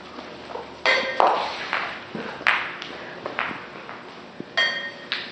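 Ping pong balls bouncing on hard surfaces: a series of light, irregular taps and clicks, with a short ringing ping near the end.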